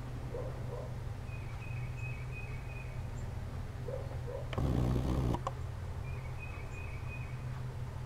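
Two short, high twittering bird calls over a steady low hum. About halfway through comes a brief, louder rush of noise.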